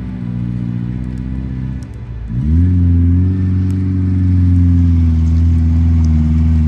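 Jeep Wrangler's engine running under way; it dips briefly about two seconds in, then picks up and holds a steady, louder drone.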